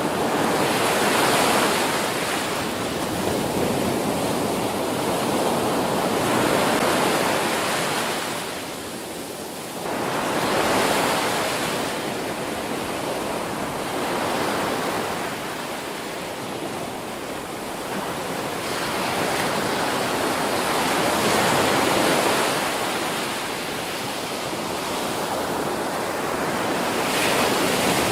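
Ocean surf: waves breaking and washing up a beach in a continuous rush that swells and eases every few seconds.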